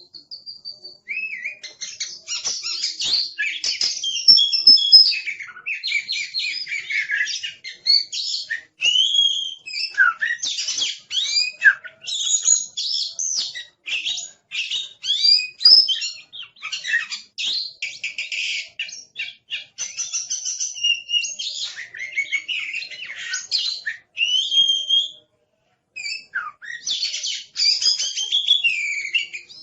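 Oriental magpie-robin (kacer) singing a noisy, near-continuous song of clear whistles, pitch sweeps and rapid chattering trills, with a brief pause about 25 seconds in.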